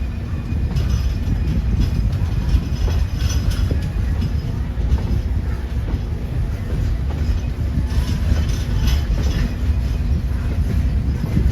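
Train rolling along the track: a steady low rumble with clattering and brief high squeaks from the wheels on the rails.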